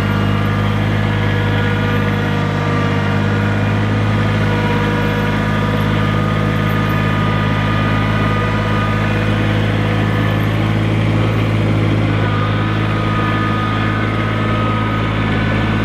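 An engine running steadily: a constant low hum with a few faint steady higher tones over it.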